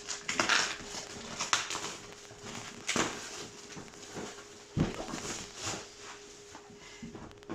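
Hands handling and opening a trading-card display box: irregular rustling of the packaging, with sharp knocks about three seconds in and again near five seconds.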